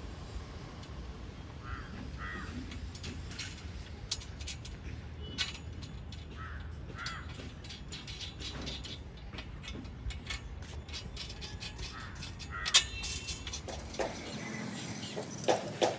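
A bird calls several times, short calls coming in pairs, over scattered sharp clicks and knocks from work going on, with a steady low hum underneath that stops near the end.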